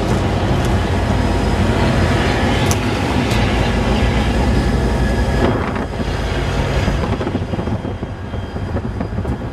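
Freight train with diesel locomotives running close by: a steady low engine drone with rail noise and a couple of sharp clicks. The sound drops off about six seconds in.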